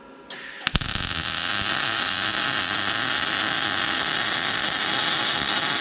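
MIG welder running a continuous weld bead on steel exhaust tubing: a steady sizzling arc. It starts about a third of a second in with a couple of sharp pops as the arc strikes.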